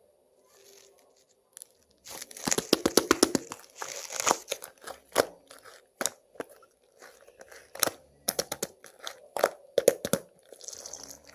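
Slime being mixed with clay by hand, squished and stretched: after a quiet start, a fast run of sticky clicks and pops begins about two seconds in, then scattered single pops.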